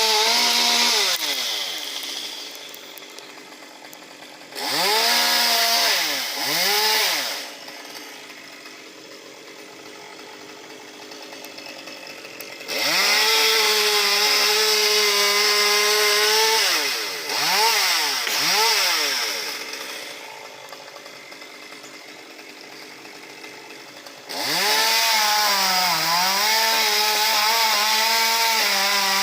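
Two-stroke chainsaw cutting elm wood, revved up and dropped back to idle several times. It runs in long stretches at full throttle whose pitch dips briefly as the chain bites, with short blips of throttle in between.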